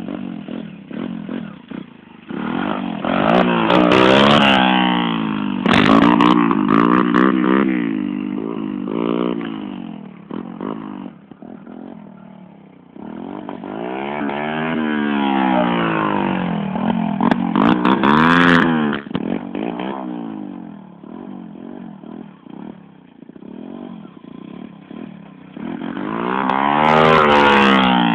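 125 cc motocross dirt bike engine revving hard in repeated surges, its pitch climbing and falling as the throttle is opened and closed. The loudest surges come about four seconds in, again around the middle, and near the end.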